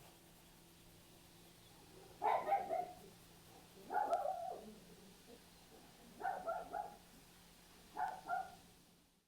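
A dog barking in short bouts: single barks about two and four seconds in, then a quick run of three and later a pair.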